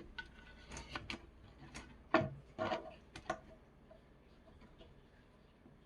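Sharp clicks and knocks of a camp hatchet's composite handle and parts being handled, about eight in the first three seconds or so, the loudest a little after two seconds, then quiet rubbing.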